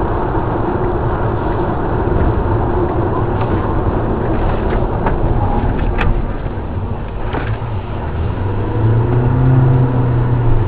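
Car engine and road rumble heard from inside a moving car, with a sharp click about six seconds in and a low engine tone rising near the end.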